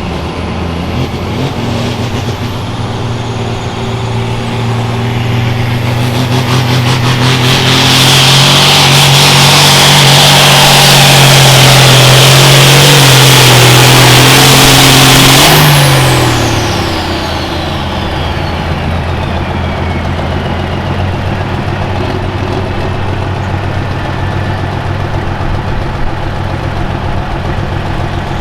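Hot farm tractor's turbocharged diesel engine pulling at full throttle for about eight seconds, then backing off to idle as the turbo's high whistle winds down over several seconds.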